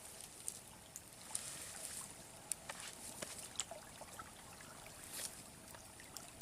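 Faint trickling water with scattered light clicks and ticks.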